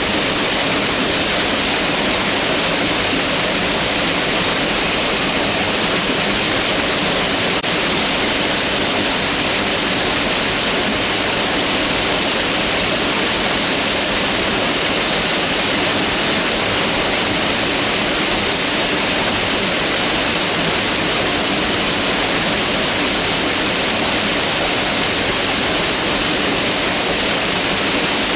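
Mountain river rushing over rocks: a steady, loud hiss of white water that does not change.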